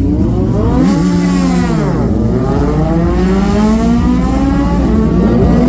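A vehicle engine revving. Its pitch rises and falls once, then climbs steadily for about three seconds, dips near the end and starts to climb again.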